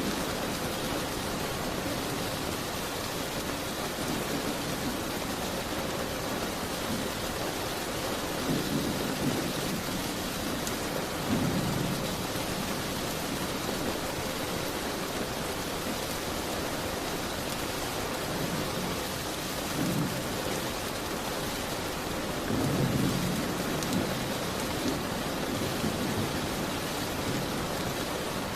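Steady rain beating on a window, an even hiss, with a few brief low rumbles that swell and fade.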